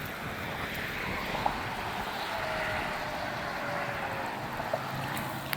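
Steady outdoor rushing background noise, with a faint thin whistle-like tone drifting slightly down through the middle.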